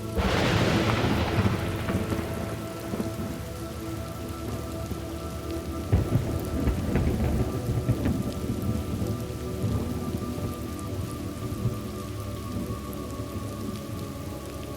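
Thunderstorm ambience: steady rain with a sharp clap of thunder right at the start that rumbles away over about two seconds, then a second rolling rumble of thunder from about six to ten seconds in.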